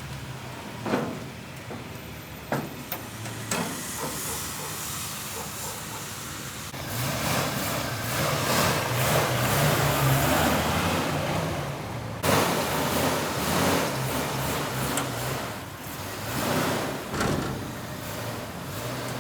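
A vehicle engine running steadily, with a few sharp clicks in the first few seconds and a loud rushing hiss from about seven seconds in until about sixteen seconds in.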